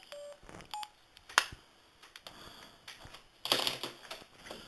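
Phone keypad beeps: two short tones in the first second as keys are pressed. Then a single sharp click, the loudest sound, and a brief burst of noise near the end.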